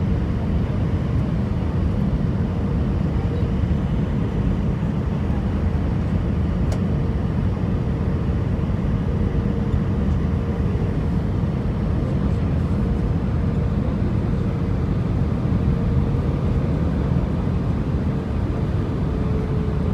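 Steady low rumble of engine and airflow noise inside an Airbus A319 cabin, with a faint steady hum over it.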